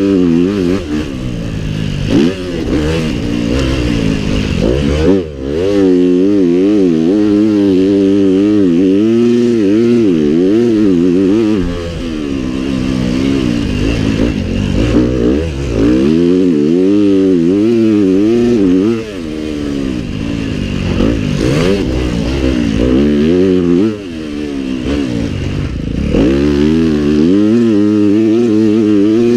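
Pit bike engines racing, revved hard and shifting over and over, the pitch climbing and dropping every second or two, with brief dips as bikes back off.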